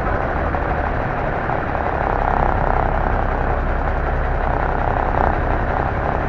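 M923A1 military 6x6 five-ton truck's Cummins NHC-250 inline-six diesel engine running steadily while the truck drives, with a slight swell in the noise a couple of seconds in.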